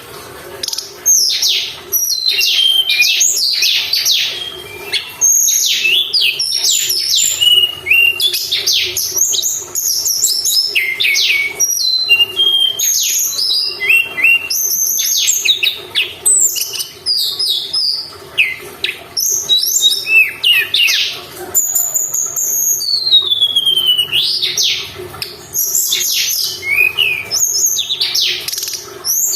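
A tledekan gunung songbird singing a rapid, unbroken run of high chirps and quick falling whistles, with a faint steady hum underneath. It is a lure song, meant to rouse other songbirds to answer.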